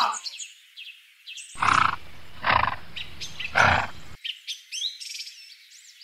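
Three rough animal calls, each about half a second long and roughly a second apart, with faint high bird chirps between them.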